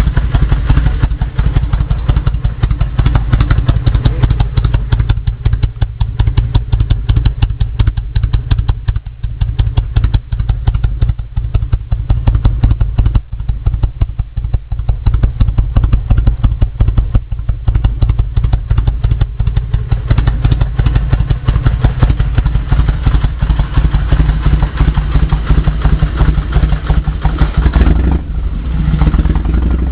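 Kawasaki VN1500 Classic's V-twin running at idle through a newly fitted Vance & Hines aftermarket exhaust, a loud, rapid train of exhaust pulses. Near the end the note changes and becomes more even.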